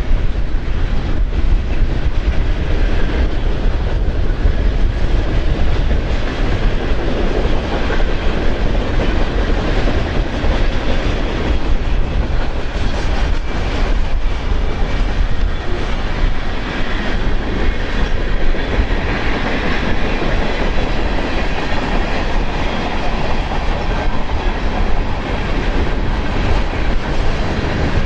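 Freight cars of a passing train rolling steadily by, with the continuous rumble and clatter of their wheels on the rails. Gusty wind on the microphone adds a heavy low rumble.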